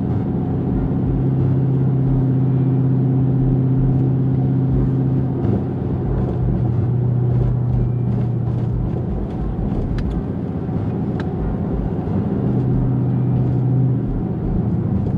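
Inside the cabin of a 2014 Dodge Challenger SRT8, its 6.4-litre 392 Hemi V8 with cat-back exhaust cruising at a steady pace: an even, low engine drone over road noise, its pitch shifting slightly a few times.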